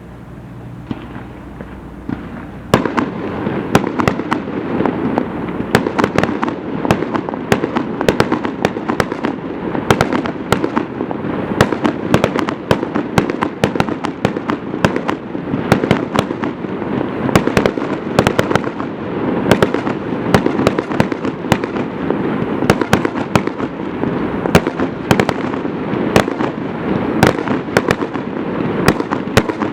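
Aerial fireworks display: a low steady hum, then from about three seconds in a dense, continuous barrage of bangs and crackling bursts, many per second.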